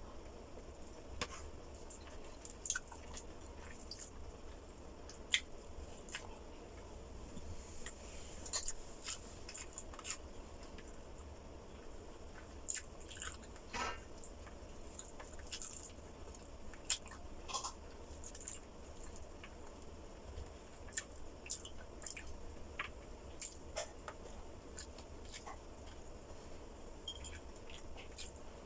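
A person eating, close to the microphone: chewing with irregular short mouth clicks every second or so, over a steady low hum.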